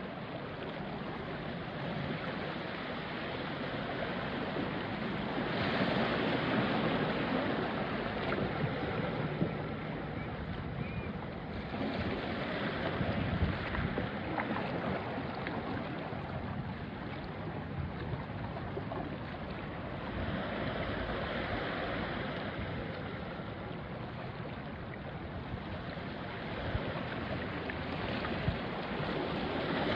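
Small sea waves washing onto a rocky shore and draining back, the wash swelling every several seconds, with wind on the microphone.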